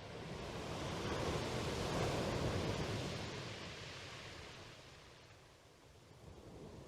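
A smooth rush of noise that swells over about two seconds and then fades away, like a single wave washing in and out.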